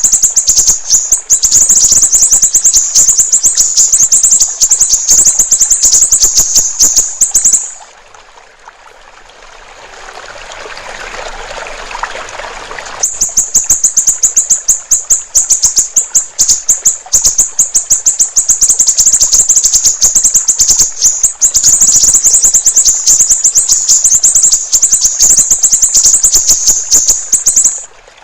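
A siri-siri songbird singing a loud, high-pitched, very rapid chattering trill of quick repeated notes. About a third of the way in the song breaks off for about five seconds, leaving only trickling water, then resumes and stops just before the end.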